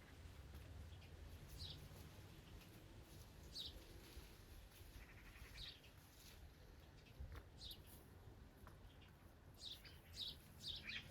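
A small bird chirping faintly: short, quickly falling chirps about every two seconds, with a quick run of several near the end, over a low background hum.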